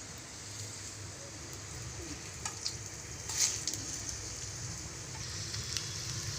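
Stuffed wheat-dough potato snacks shallow-frying in a little hot oil in a pan on a low flame: a steady sizzle, with a few sharp clicks around the middle.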